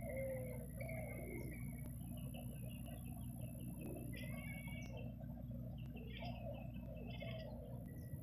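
Birds calling: short low cooing notes and bursts of quick higher chirps, over a steady low hum.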